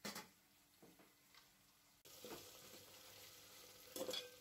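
Chopped onions, green chillies and potatoes frying in oil in an aluminium pot: a faint steady sizzle that starts abruptly about two seconds in, after a brief knock at the start. Near the end a spatula scrapes through the vegetables, stirring them.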